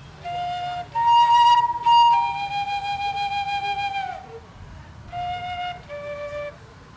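Slow flute melody of a few separate held notes; the longest is held about two seconds and slides down in pitch as it ends.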